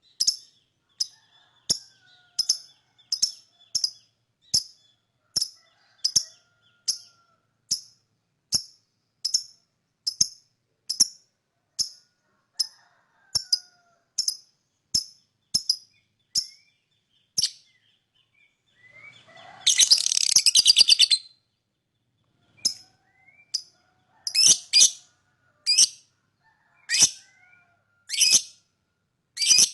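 Lovebird calling: short, sharp, high chirps repeated about one and a half times a second. About two-thirds of the way in they break off for a loud, rapid chattering trill of just under two seconds, then the chirps come back louder.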